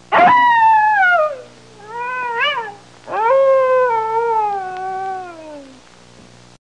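Domestic cat meowing three times: a long meow falling in pitch, a short one that rises and falls, then a longer, slowly falling meow.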